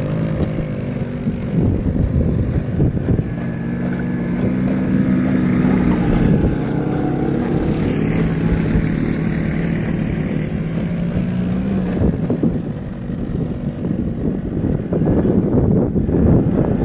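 Off-road bike engine running under a rider crossing sand dunes. Its note holds fairly steady, then turns rougher and louder near the end, with wind buffeting the microphone throughout.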